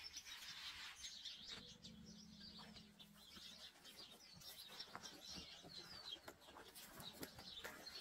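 Faint bird chirping: many short high chirps, with a few light clicks.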